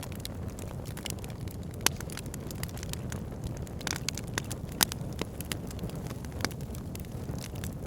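Logs burning in a fireplace: a steady low rumble under frequent sharp crackles and pops, two of them louder, about two and five seconds in.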